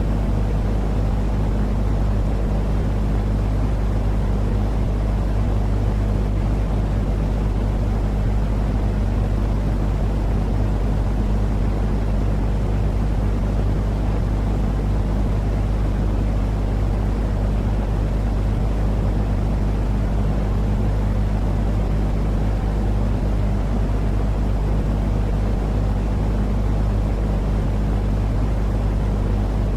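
Steady, unchanging noise weighted toward the low end, like a deep rumble, with a faint constant hum beneath it: a sleep-noise track played to lull a baby to sleep.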